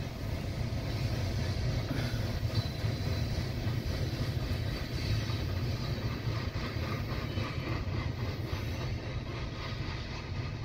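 Freight cars of a long mixed manifest train rolling along the track: a steady rumble of steel wheels on rail, easing off slightly near the end as the cars pull away.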